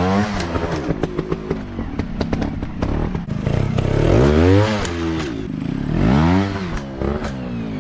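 Dirt bike engines revving up and down repeatedly, the pitch rising and falling about three times, with clattering and knocking over rough ground.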